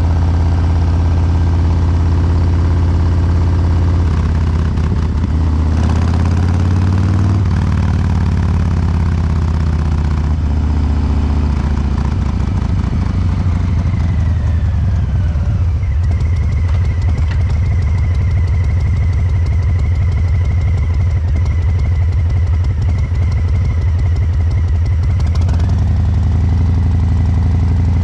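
Harley-Davidson Breakout 114's Milwaukee-Eight 114 V-twin through COBRA Neighbor Hater slip-on mufflers, its fuel injection tuned for a lumpy three-beat rhythm. The revs rise and fall a few seconds in, then it settles back into a steady low beat; a steady high whine runs over it through much of the second half.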